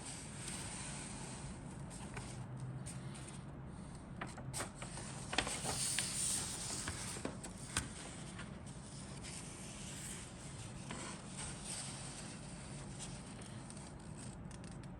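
Plastic kit parts and their bags handled in a cardboard box: rubbing and rustling with scattered light clicks, busiest between about four and eight seconds in.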